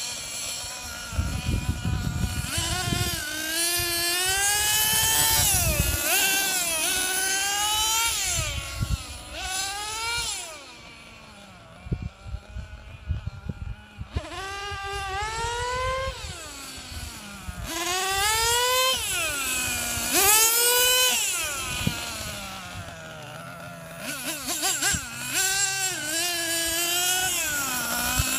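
Losi XXL-2 Gas RC monster truck's small two-stroke gas engine revving up and falling back over and over as the truck is driven, with a quieter lull of a few seconds near the middle. The engine is on its fourth tank and is still being tuned.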